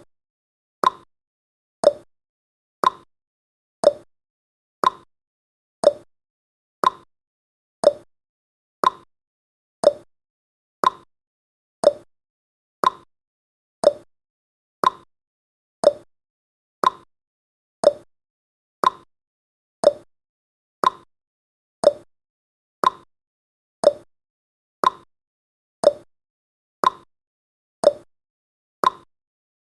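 Countdown timer's ticking sound effect: one short, sharp tick every second, evenly spaced and steady.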